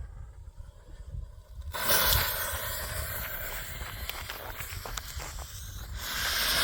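A homemade firework rocket engine ignites about two seconds in with a sudden loud hiss that fades over the next few seconds as it climbs. Near the end a louder rush of noise follows.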